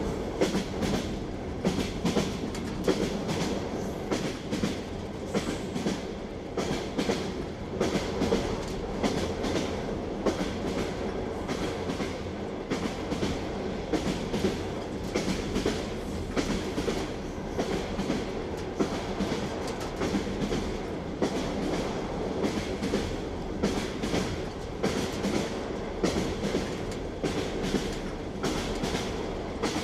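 Railway carriage wheels clicking rhythmically over rail joints, the clickety-clack of a moving train, over a steady rolling rumble.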